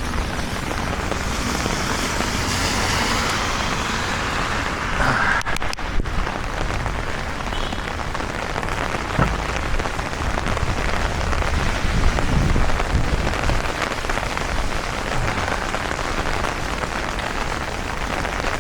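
Steady heavy rain falling, with a few sharper drop taps standing out.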